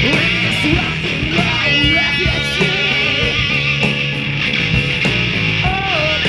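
Rock music played by a band: a lead electric guitar bending notes up and down over bass and drums.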